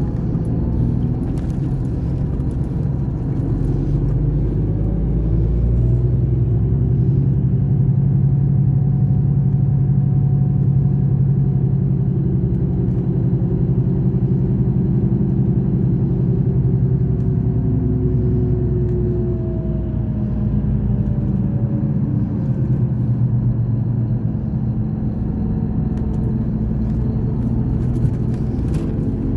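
Scania K420 coach's diesel engine running, a steady low drone whose pitch slowly rises and falls.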